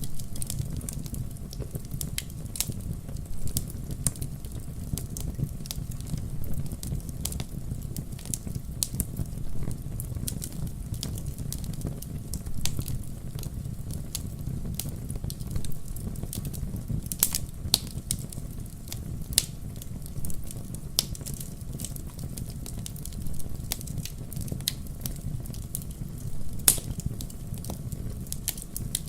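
Campfire burning with a steady low rumble and constant irregular crackles, a few sharper pops standing out.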